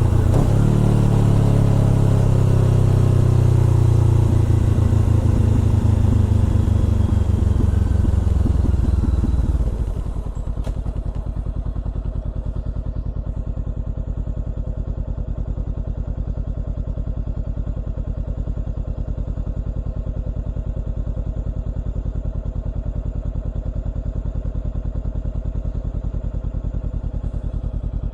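Honda CBR400R parallel-twin through a Trick Star Ikazuchi exhaust, running loud with its pitch falling as the bike slows. About ten seconds in it drops abruptly to a steady, evenly pulsing idle that lasts to the end.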